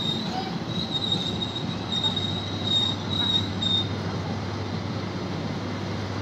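Passenger coaches of a slowing train rolling past, the wheels rumbling steadily on the rails with a high, thin squeal from the running gear that stops about four seconds in.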